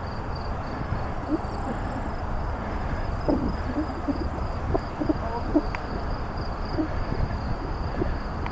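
Steady wind rush and rolling noise on a moving bicycle's camera microphone, with a thin steady high whine and a few short faint sounds scattered through.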